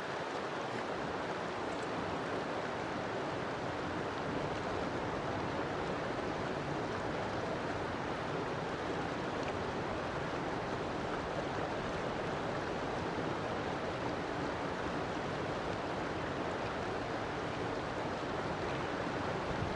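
River water flowing, a steady, even noise.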